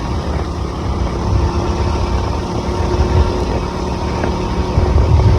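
KTM Duke 200's single-cylinder engine running under way, growing gradually louder.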